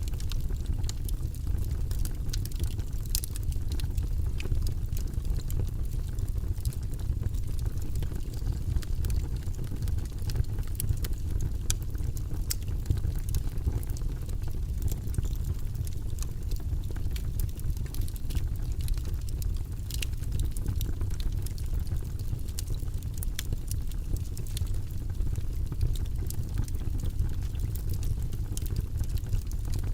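Logs burning in a fireplace: a steady low rumble of flames with frequent small crackles and pops throughout.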